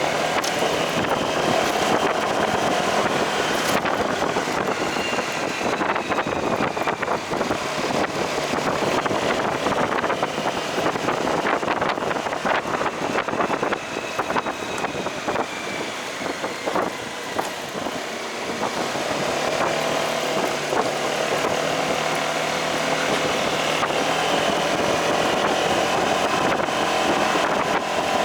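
Motorcycle riding in traffic: engine running with road and wind noise, its pitch easing down now and then, quieter for a few seconds in the middle.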